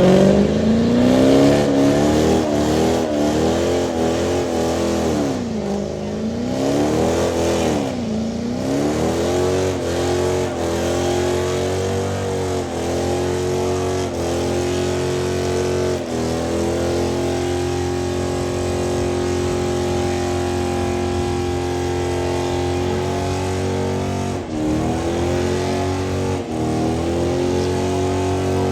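Car engine revved hard, swooping up and down several times, then held at high revs for long steady stretches, with two brief dips near the end.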